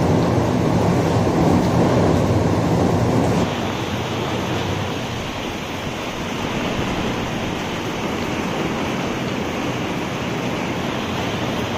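Steady rainfall, a dense even hiss. About three and a half seconds in the sound changes abruptly, losing some of its deep rumble and turning brighter.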